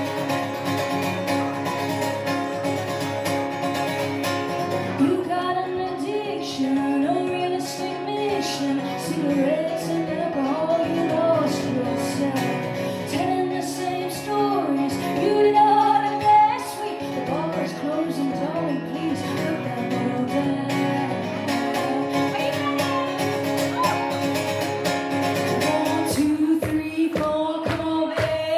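Live band music with a female lead vocal that comes in about five seconds in and carries on over the accompaniment.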